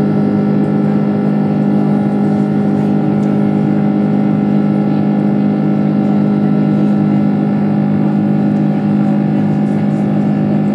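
Steady drone of an Airbus A330-300's Rolls-Royce Trent 700 jet engines and rushing air, heard inside the passenger cabin, with a strong low hum and no change in pitch.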